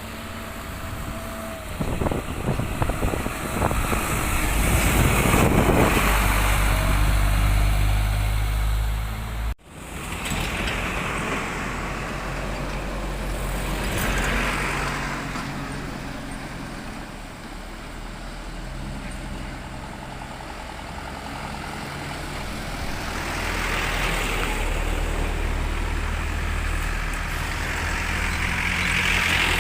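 Road traffic going by: heavy trucks and other vehicles pass one after another, their diesel engines running low and their tyre noise swelling and fading with each pass, with some rattling as a loud vehicle goes by early on. The sound breaks off abruptly for an instant about ten seconds in, then the traffic carries on.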